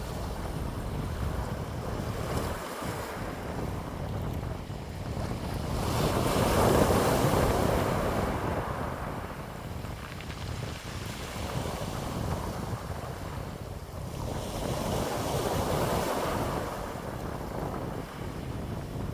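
Wind blowing in gusts that swell and fade every several seconds, the strongest about seven seconds in, over a steady low rumble of wind buffeting the microphone.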